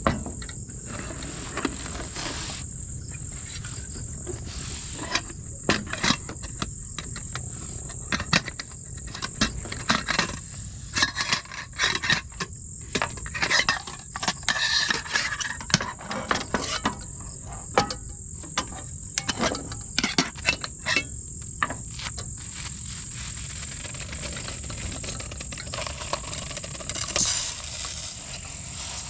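A steady high-pitched insect chorus of crickets trilling, with irregular clicks and knocks scattered over it, thickest through the middle and dying away near the end.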